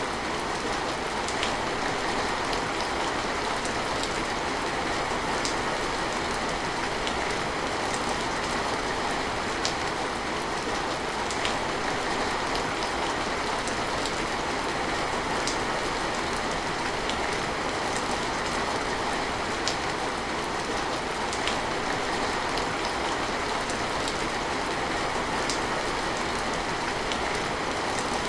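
Steady rain falling, an even hiss, with scattered louder drops ticking every second or two.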